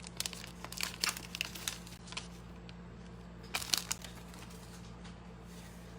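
Plastic wrapper of a basketball trading-card pack crinkling as it is torn open and handled. It comes in bursts through the first two seconds and again briefly a little past halfway, over a steady low hum.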